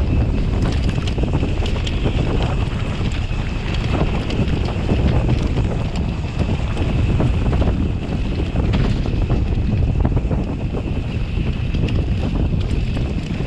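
Heavy wind buffeting on an action-camera microphone during a fast mountain-bike descent. The Bird Aether 7's tyres and frame clatter with frequent small knocks over rough trail.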